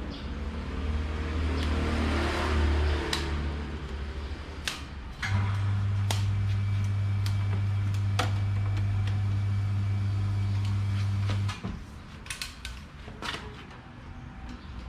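Hatari electric fan's motor running with a steady low hum. The hum drops away about three seconds in, comes back louder about five seconds in and cuts off suddenly about eleven and a half seconds in, with scattered clicks and light knocks throughout.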